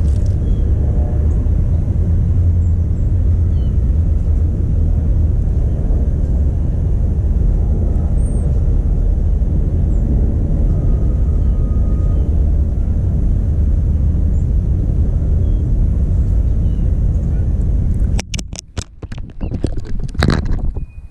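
Loud, steady low rumble with a few faint high chirps over it. About eighteen seconds in, the rumble drops away and a cluster of sharp knocks and clicks follows, the loudest near the end.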